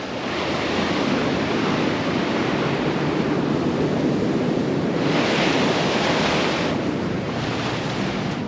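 Ocean surf washing on the shore with wind buffeting the microphone; the surf swells louder about five seconds in, then eases.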